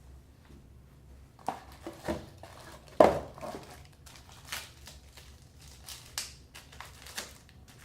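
Faucet parts and packaging being handled: crinkling and rustling with scattered clicks and knocks, one sharper knock about three seconds in.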